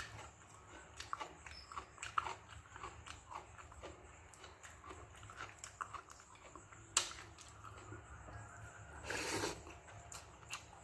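A person chewing and eating soft, wet food close to the microphone: irregular wet mouth clicks and smacks, with a sharp click about seven seconds in and a short, louder rushing sound a little after nine seconds.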